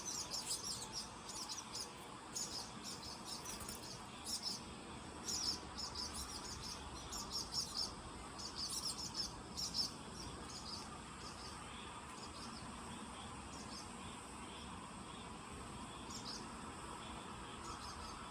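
Baby bird chirping in quick runs of short, high peeps, busiest for the first ten seconds or so, then only now and then, over a steady faint background hiss.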